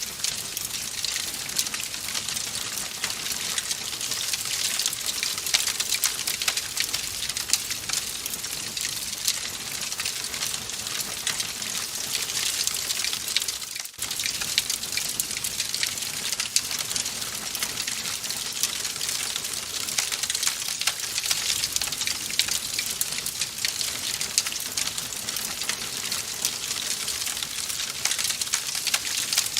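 Wood fire in a fireplace crackling, a steady hiss with dense small pops and snaps, and a brief dip in level about halfway through.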